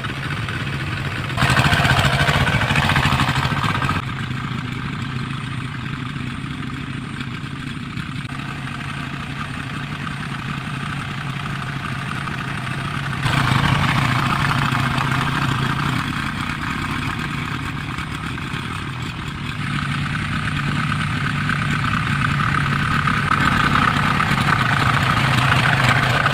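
Hand tractor engine running steadily while its rotary tiller churns the soil, getting louder for a couple of seconds about two seconds in, and again for longer stretches midway and near the end.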